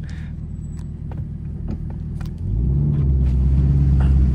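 Chevrolet Camaro ZL1 1LE's supercharged 6.2-litre V8 rumbling low in traffic, then about halfway through coming onto the throttle so the engine and exhaust note steps up louder into a deep, steady drone, heard from inside the cabin.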